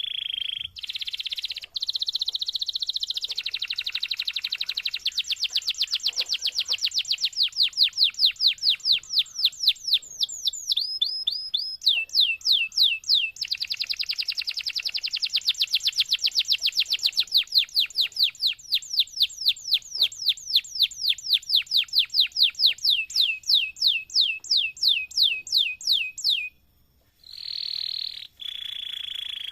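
Domestic canary singing a long, continuous song: fast trills of rapidly repeated sweeping notes, about eight a second in places, changing speed and pitch from one roll to the next. It breaks off briefly near the end and starts again.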